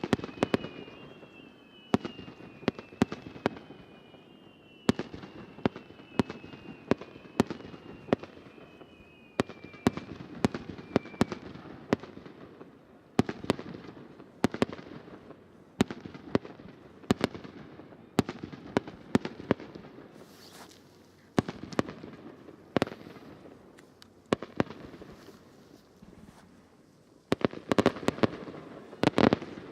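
Aerial fireworks bursting: a long series of sharp bangs, one every second or so, with thin falling whistles in the first ten seconds or so. The bangs come in a dense rapid cluster near the end.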